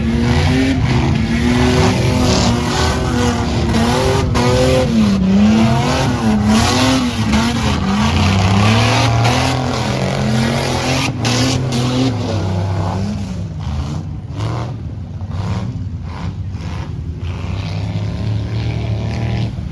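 Off-road vehicle engine revving up and down over and over, then settling into a lower, steadier run about two-thirds of the way through.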